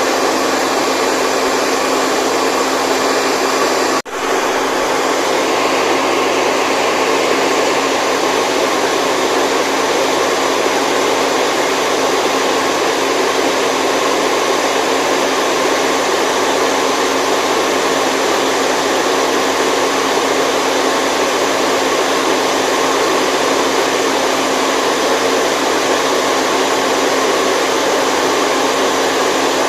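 Steady white noise for baby sleep: a dense, even hiss with faint steady hum tones in it. It cuts out for an instant about four seconds in, then carries on unchanged.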